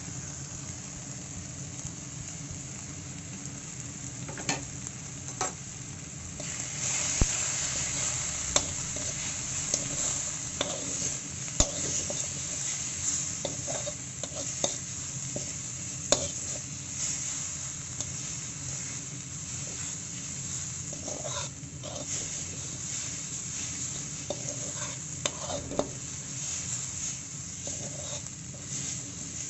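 A spice paste of ground tomato, garlic, onion and chili, with powdered spices just added, sizzling in hot oil in a metal kadai while a spatula stirs and scrapes it, knocking on the pan now and then. The sizzle grows louder about six seconds in. This is the masala being fried before water goes in.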